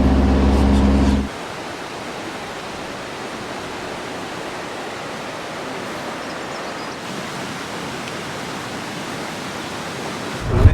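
A low steady hum with a few even tones that cuts off abruptly about a second in, followed by a steady, even rushing noise with no tones or breaks.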